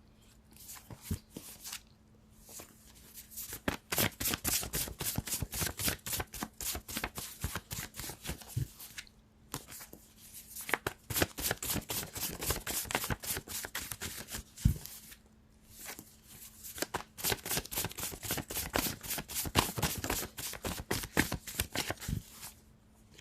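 A deck of tarot cards being shuffled by hand: quick runs of crisp card clicks in three spells, with short pauses between them.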